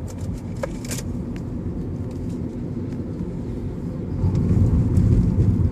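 Car cabin noise while driving: a steady low rumble of engine and tyres on the road, growing louder about four seconds in, with a few light clicks in the first second.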